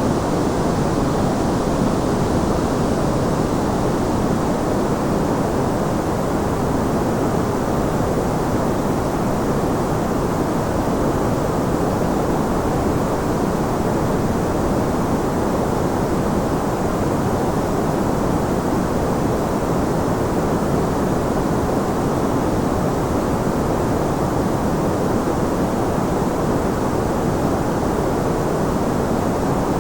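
Continuous white noise for sleep: an even, unchanging hiss, weighted toward the low and middle range so it sounds deep and soft rather than sharp.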